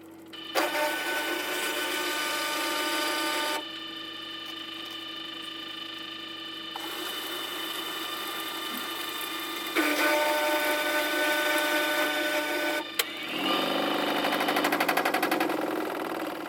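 Washing machine running, sped up tenfold: the drum motor whirs in loud stretches of about three seconds that start and stop abruptly, with quieter running between them and a fast pulsing rhythm near the end.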